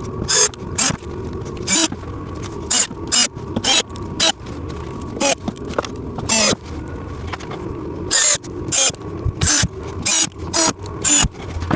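Plastic parts and small screws being worked while fastening the canopy of a ride-on toy excavator: a quick, irregular run of sharp clicks and scrapes over a low rumble.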